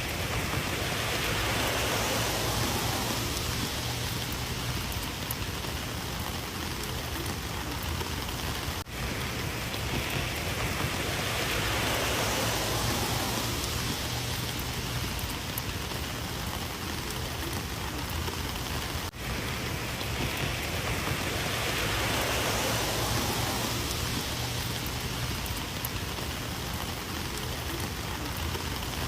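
Steady rain falling: a dense, even hiss that swells and eases about every ten seconds, with a momentary drop-out twice.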